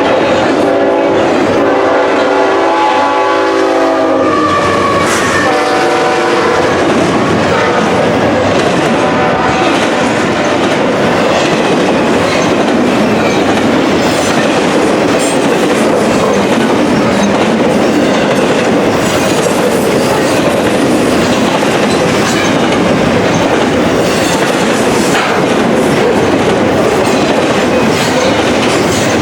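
Locomotive air horn sounding a chord for about four seconds, then a shorter blast, followed by the steady rumble and clickety-clack of a train's wheels passing over the rails.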